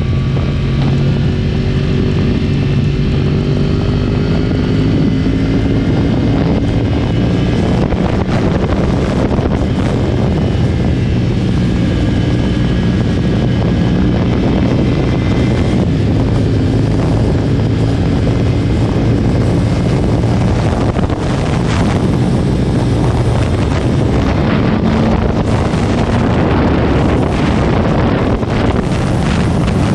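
2010 Yamaha R1's crossplane inline-four engine running through a decatted Akrapovic exhaust while being ridden. Its pitch shifts gently over the first several seconds, then it carries on mixed with a steady rushing noise.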